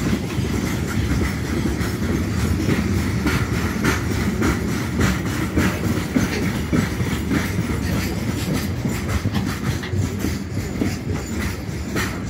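Broad-gauge freight train of high-sided open wagons rolling past: a steady low rumble of wheels on rail, with irregular clicks and clacks as the wheels pass over rail joints.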